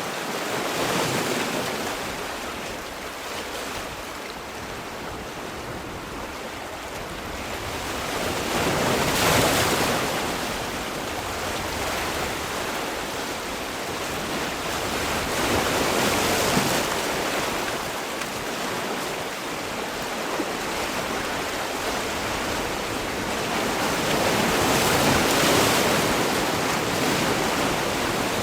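Sea waves breaking and washing on a shore, a steady surf hiss that swells and eases in slow surges, with four louder breakers over the span.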